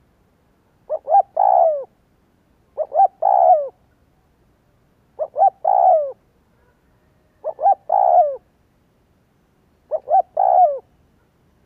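Spotted dove (Streptopelia chinensis) cooing: five identical phrases, about one every two and a half seconds, each two short quick notes followed by a longer drawn-out coo.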